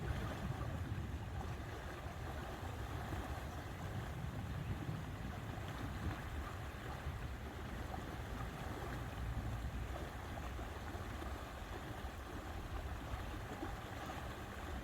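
Steady lakeside ambience of water and wind, with a constant low rumble.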